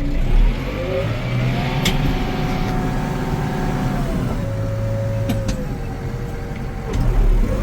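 McCormick CX105 tractor's diesel engine pulling away in first gear, high range. The engine revs up in the first second, holds steady, drops in pitch about four seconds in, and dips again near the end ahead of the change into second. A low thump comes just after the start and another near the end.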